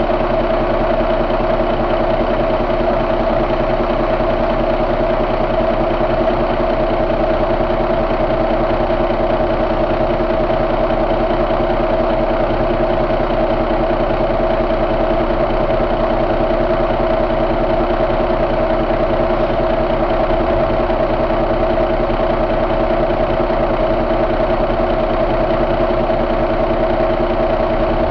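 2007 Cummins ISX inline-six diesel engine idling steadily, with an even pitch and no revving.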